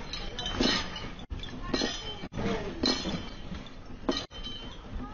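Glassware and dishes clinking and rattling as they are shaken by an earthquake, with sharp clinks about once a second.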